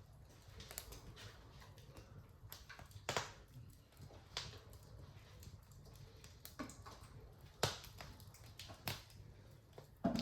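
Fireplace fire crackling: irregular sharp pops and snaps over a low, steady rumble of flame, the loudest pops about three, seven and a half and ten seconds in.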